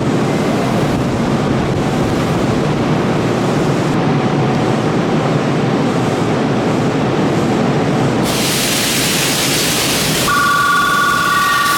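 Electric commuter train running at a station platform with a steady rumble. About eight seconds in, a loud hiss starts. Near the end, a steady two-tone electronic chime sounds over it.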